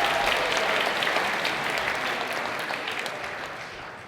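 Audience applause welcoming a performer, dying away over a few seconds.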